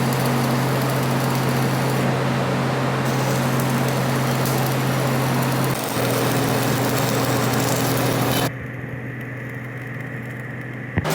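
Workshop machinery running: a steady motor hum under a loud hiss. The sound changes abruptly about six seconds in, and again about eight and a half seconds in, when the hiss drops away and the hum carries on quieter.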